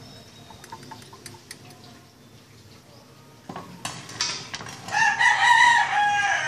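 A rooster crows once near the end, one held call of about a second and a half and the loudest sound, preceded by a few scattered clicks and knocks.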